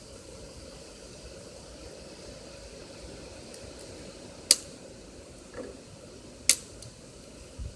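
Steady hiss of breakfast cooking on a stove, with two sharp clicks about four and a half and six and a half seconds in, and a softer knock between them.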